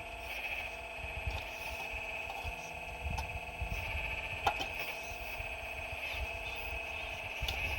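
4200XL excavator working, with a steady high hydraulic-style whine over an uneven low rumble. A couple of sharp knocks come about four and a half seconds in and near the end.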